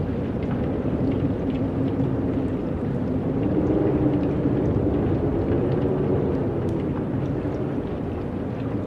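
Steady wind, a low rushing noise with a faint wavering hum that swells a little midway through.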